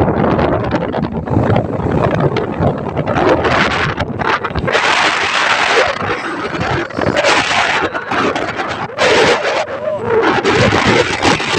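Strong, gusty wind buffeting the microphone, rising and falling in uneven surges.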